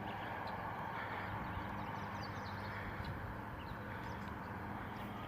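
Steady outdoor background hum with faint, scattered short high chirps.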